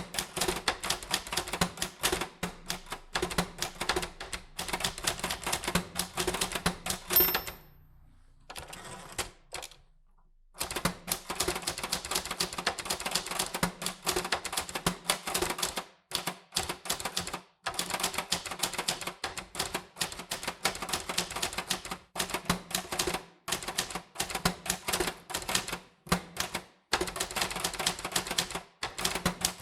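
Typewriter keys struck in rapid, uneven runs of clicks. Typing pauses for about three seconds a third of the way through, then resumes.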